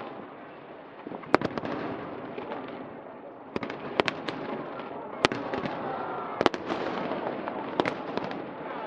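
Fireworks display: sharp bangs of bursting shells, coming in quick clusters of two to four about every one to two seconds, over a steady background din.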